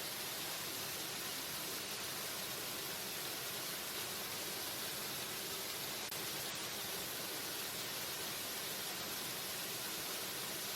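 Waterfall: a steady, unbroken rush of falling water, an even hiss strongest in the upper range.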